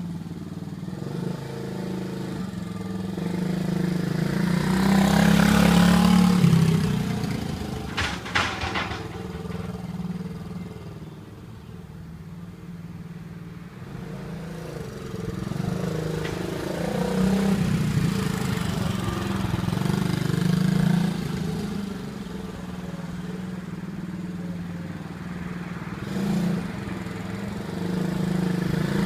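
110 cc mini pit bike's single-cylinder engine running, its revs swelling up and falling back several times, with a few sharp clicks about a third of the way in.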